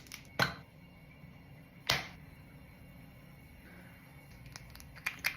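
A few sharp clicks and taps of small objects being handled: one about half a second in, one near two seconds, and two quick ones near the end, over a faint steady room hum.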